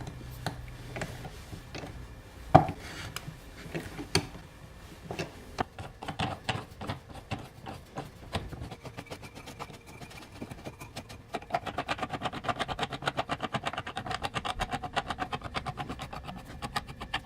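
Workshop hand work: a few scattered knocks, one loud one about two and a half seconds in, then a fast, even run of clicks that grows denser and louder from about eleven seconds in.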